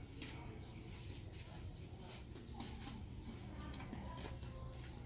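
Quiet outdoor ambience: a small bird repeats a short high chirp about every second and a half, over a steady thin high-pitched whine and a low hum.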